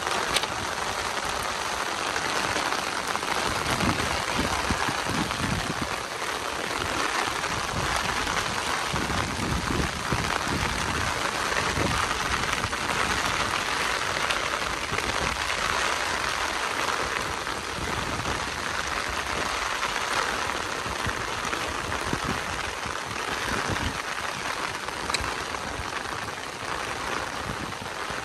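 Heavy rain falling steadily, a dense even patter of drops, with scattered low thuds of drops striking close by.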